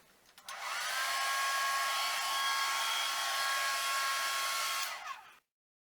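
Handheld hair dryer switched on, running steadily with a fan hiss and a high whine, then switched off near the end.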